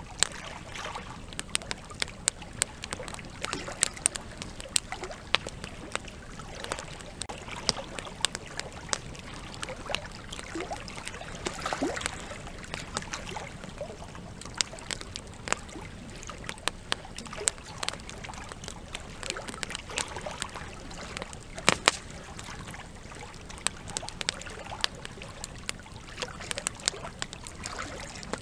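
Campfire crackling with frequent sharp pops over the steady rush of flowing river water.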